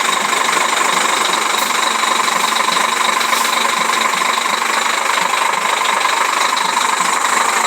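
Scania truck's diesel engine running steadily at low revs as the truck is backed up.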